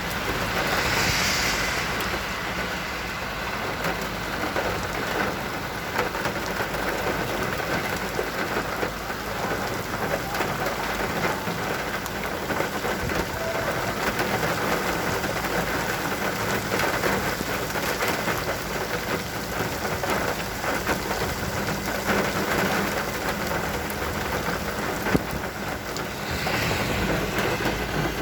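Heavy rain falling, a steady dense hiss of rain on surfaces.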